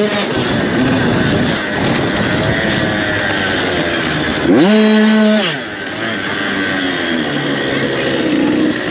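Motocross dirt bikes racing, engines revving up and down as they work the track. About four and a half seconds in, one bike comes in loud, holds a high rev for about a second, then drops off.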